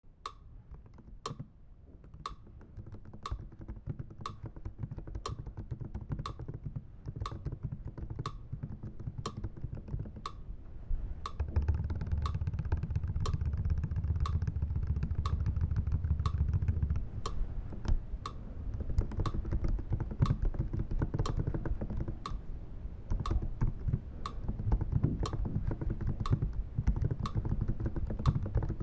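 Computer keyboard being typed on, layered over an even ticking of sharp clicks about twice a second. A low rumble underneath swells for several seconds in the middle.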